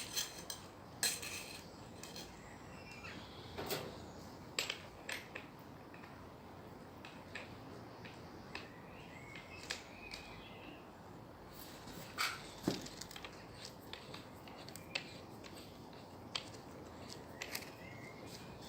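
Scattered sharp clicks and light metallic clinks as a guard is taken off an angle grinder and a hard wire paint-and-rust-remover wheel is fitted; the grinder is not running.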